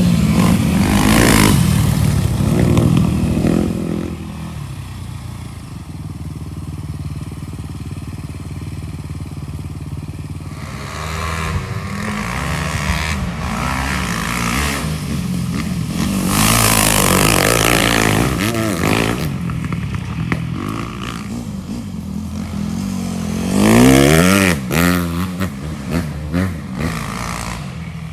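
Dirt bike engines revving and riding past, the pitch rising and falling with the throttle several times. The loudest, closest pass comes near the end.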